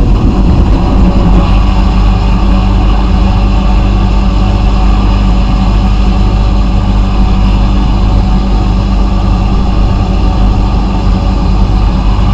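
Steady running machinery with a low, even hum and a hiss over it, no change in pitch or level.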